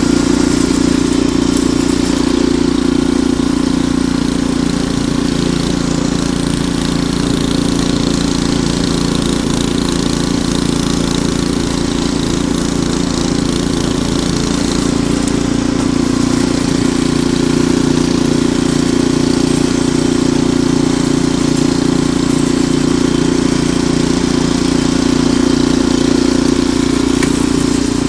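Ariens Deluxe 28 snowblower's single-cylinder engine running at a steady speed, with no change in pitch.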